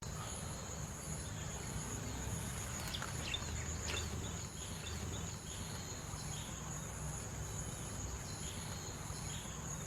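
Insects chirping outdoors: a steady high shrill with a higher trill pulsing about twice a second, over a low rumble. A few short bird chirps come about three to four seconds in.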